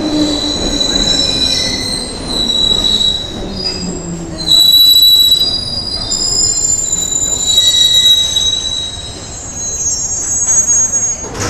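London Underground C Stock train's wheels squealing on the rails: several high squeals that shift in pitch and overlap, loudest about halfway through, with a lower whine falling in pitch near the start.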